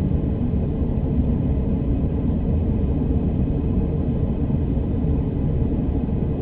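Steady low rumble heard inside an electric commuter train car, with no distinct events.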